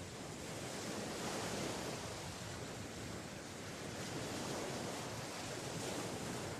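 Sea surf: a steady rushing of waves washing on the shore.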